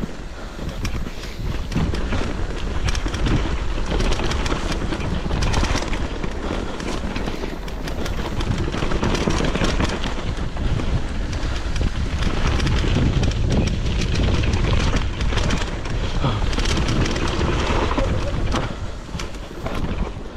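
Wind buffeting the microphone over the rattle and clatter of a mountain bike running fast over rough ground, with many short knocks throughout.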